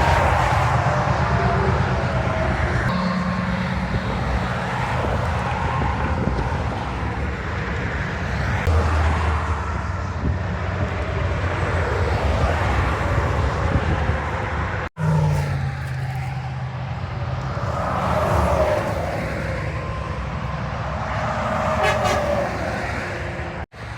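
Interstate highway traffic with heavy trucks passing: a steady wash of tyre noise under low engine drone. The sound breaks off abruptly twice, about two-thirds of the way through and again near the end.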